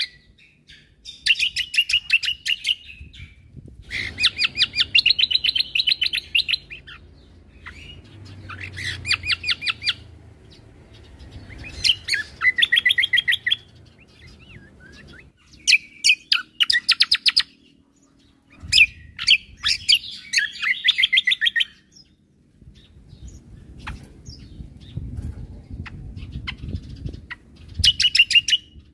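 Cucak kombo (kecial kombo) songbird singing: repeated bursts of rapid, evenly spaced chirping notes, each phrase lasting one to three seconds with short pauses between.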